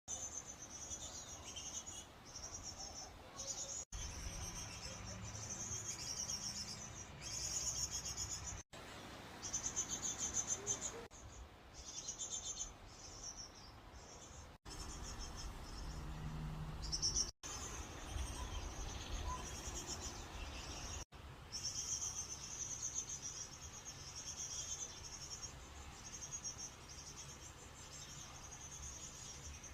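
Insects trilling in high-pitched, pulsing stretches that come and go, over a low rumble, with the sound cutting out for an instant five times.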